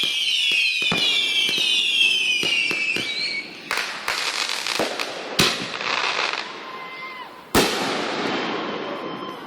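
Consumer fireworks going off: several high whistles falling in pitch over rapid crackling pops, then a string of sharp bangs with crackling between them, the last one near the end.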